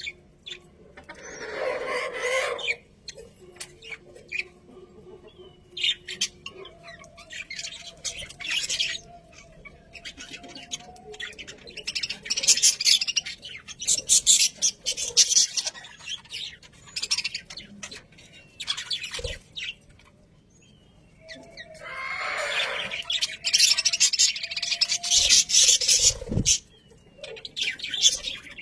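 Budgerigars chattering and warbling in bursts of rapid chirps and squawks, loudest in two stretches around the middle and near the end.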